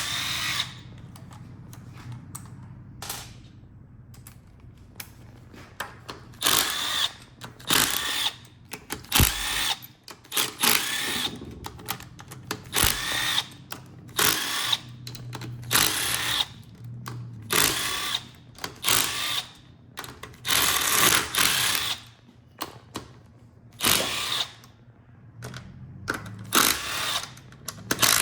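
Cordless power drill/driver spinning bolts out of an automatic transmission case in repeated short bursts of about a second each, more than a dozen times, with short pauses between.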